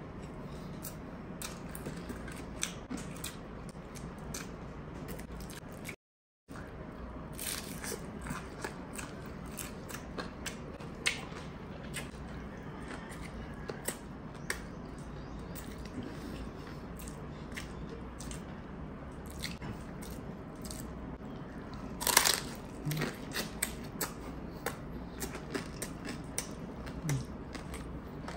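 Close-up eating sounds: chewing and biting into crunchy food, with many sharp crunches and clicks. The loudest crunch comes about 22 seconds in, and the sound drops out to silence for half a second about six seconds in.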